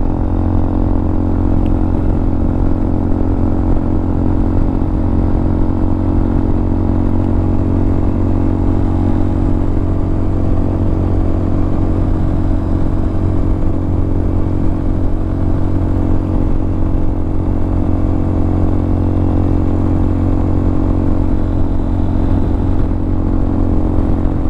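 Hawk 250 single-cylinder carbureted motorcycle engine, fitted with a Motocults stage 4 kit, running at a steady pitch while the bike cruises along.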